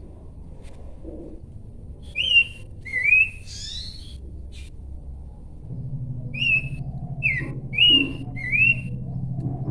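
Abbott's babbler singing short, clear whistled notes that slide up or down: two about two seconds in, then a run of four from about six seconds. A low steady hum comes in about halfway through.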